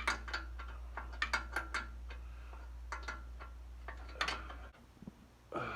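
Irregular metallic clicks and clinks of hand tools and metal parts being handled on the carburetor and manifolds of a vintage Caterpillar crawler tractor. A steady low hum runs beneath them and cuts off suddenly about three-quarters of the way through.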